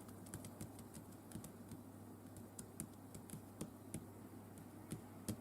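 Faint, irregular small clicks and taps from craft foam and tools being handled on a work surface, over a low steady hum.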